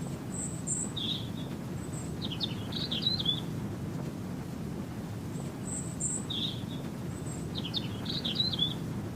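Birdsong, a short chirp and then a quick warbling phrase of high notes, repeating the same pattern about every five seconds, as in a looped recording. Under it runs a steady low noise bed.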